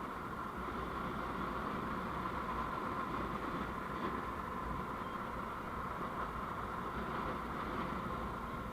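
Steady road and engine noise from a vehicle on the move, picked up by a dashcam microphone, even and unbroken throughout.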